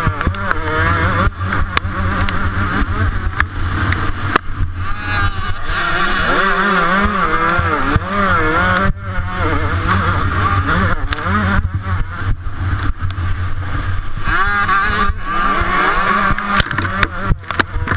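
125cc two-stroke motocross bike's engine heard close up, revving hard, its pitch rising and falling over and over as the throttle opens and closes. Frequent brief knocks cut through it.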